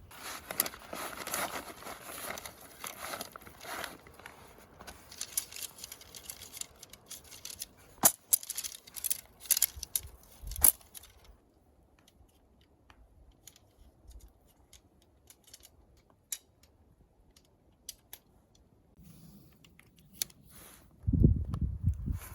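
Rustling and crinkling handling noise with a few sharp clicks, like material being torn or crumpled, for about eleven seconds, then only scattered light ticks. Low heavy thuds start near the end.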